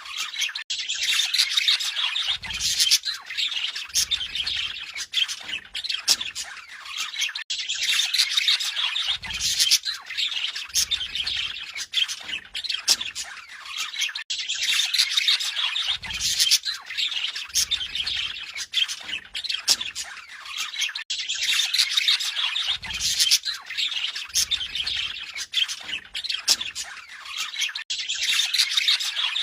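Budgerigars chattering and warbling, with busy chirps and squawks. The same stretch of calls repeats about every seven seconds.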